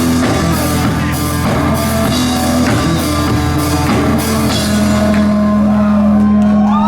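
Live rock band playing loud with a full drum kit and guitars. About four and a half seconds in the drum hits stop and a low chord is held ringing.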